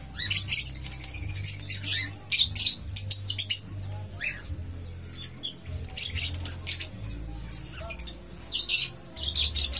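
Small cage birds chirping in quick, sharp high calls that come in clusters, over a low steady hum.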